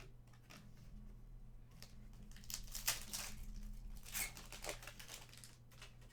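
Foil trading-card pack wrapper being torn open and crinkled, a burst of crackling in the middle, with a few lighter rustles and clicks around it.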